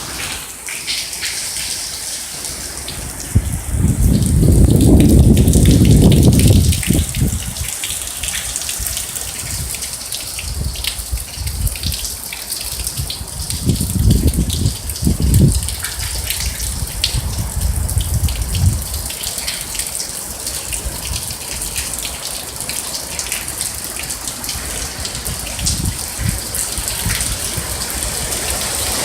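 Hurricane wind and rain: a steady rushing hiss, with strong gusts buffeting the microphone as deep rumbling surges several times, the strongest about four to seven seconds in.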